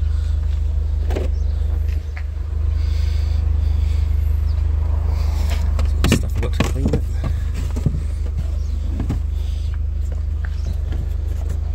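A car engine, likely the Audi TT roadster's own, idling with a steady low hum. About six seconds in, as the boot is opened, there is a short run of clicks and knocks.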